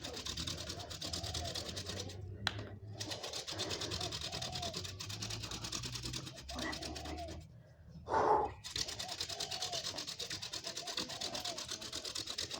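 Hand-drill friction fire: a wooden spindle spun back and forth between the palms on a wooden fireboard, giving a rapid raspy rubbing, with smoke already coming from the hearth. The rubbing breaks off briefly twice, about two and a half and eight seconds in, as the hands go back to the top of the spindle.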